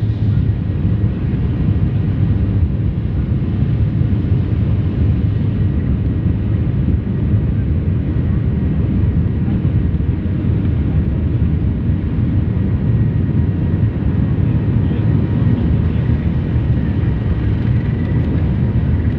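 Passenger airliner's jet engines and airframe during takeoff: a loud, steady, deep rumble that holds without a break.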